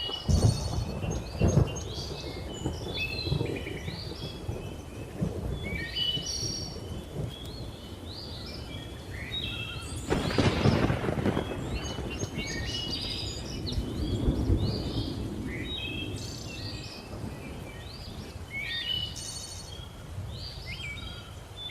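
Thunder rumbling under a busy chorus of many chirping and whistling birds, with a loud crack of thunder about ten seconds in.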